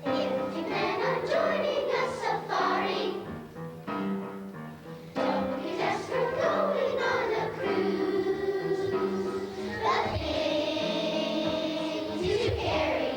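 A children's choir singing a song with instrumental accompaniment, with a long held note near the end.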